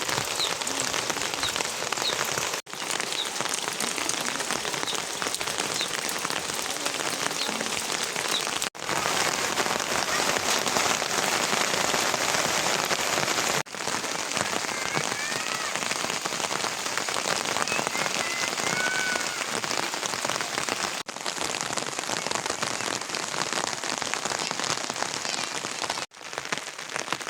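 Steady rain falling on surfaces. It breaks off for an instant several times and resumes at a slightly different level each time. A few faint high chirps come through about halfway in.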